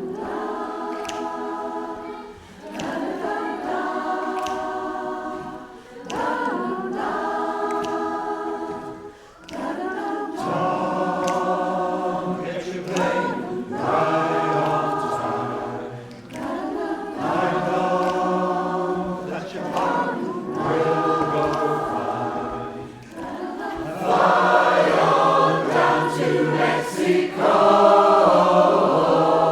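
Amateur community choir singing in harmony, in sustained phrases of a few seconds each with short breaks between. A lower part joins about ten seconds in, and the singing grows louder near the end.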